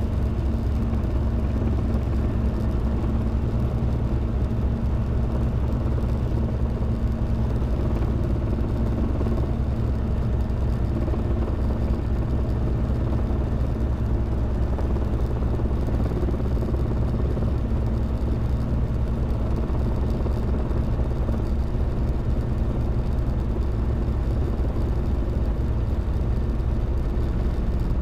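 Robinson R22 helicopter's piston engine and rotors running in a steady drone, heard from inside the small cabin.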